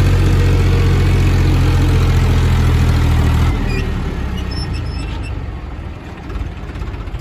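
Massey Ferguson 1035 tractor's three-cylinder diesel running hard and steady while pulling a heavily loaded trolley, then dropping off sharply about three and a half seconds in to a lower, rougher running.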